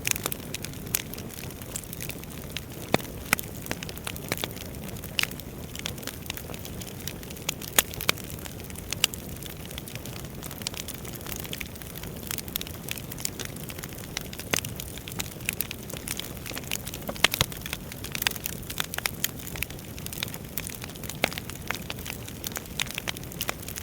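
Wood fire burning in a fireplace: a steady low rush of flame with irregular crackles and sharp pops of the burning logs, a few louder snaps scattered through.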